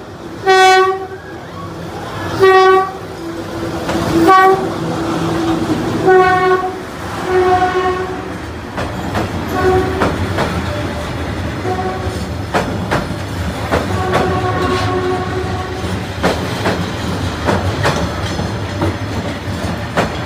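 Locomotive horn sounding about five short, loud blasts as the train approaches, then fainter toots. From about eight seconds in, the coaches pass close by with a steady rumble and repeated clacks of wheels over rail joints.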